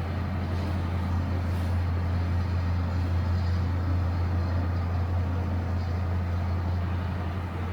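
A low, steady engine drone that runs unbroken, over a faint background hiss.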